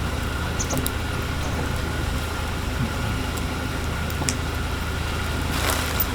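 Wood fire burning in a Picogrill fire stand, with scattered small crackles and pops over a steady low rumble.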